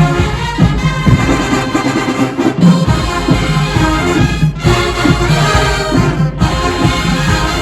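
HBCU marching band playing loudly, led by brass (trumpets and trombones) over a rhythmic beat, with a few short, sharp cut-offs between phrases.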